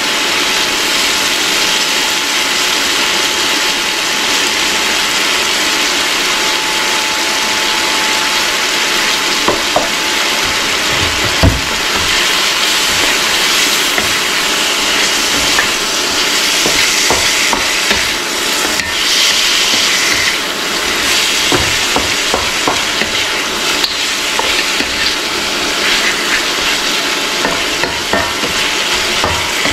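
Goat meat and onions sizzling steadily in a hot wok while being stirred with a wooden spoon, which knocks and scrapes against the pan now and then, loudest about eleven seconds in and more often in the second half.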